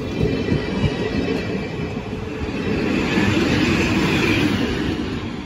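12-series passenger coaches hauled by an ED75 electric locomotive running along the line, their wheels rumbling and clattering over the rails in a steady run. The sound grows a little louder about three seconds in and then eases.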